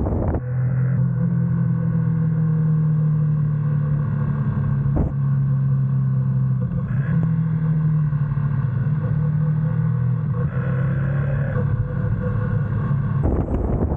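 GS motorcycle's engine running at a steady speed, a low even drone whose pitch shifts a little a few times. Near the end it gives way to a rushing noise.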